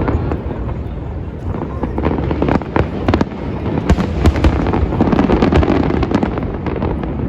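Fireworks display: a dense run of sharp bangs and crackles over a steady low rumble, busiest in the second half.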